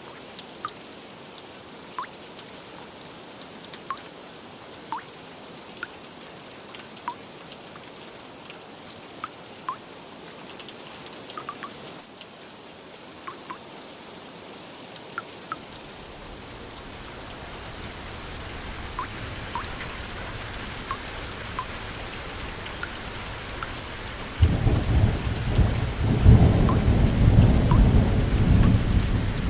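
Steady rain falling, with single drops plinking about once a second. From about halfway a low rumble of thunder builds, and about five seconds before the end loud rolling thunder breaks in over the rain.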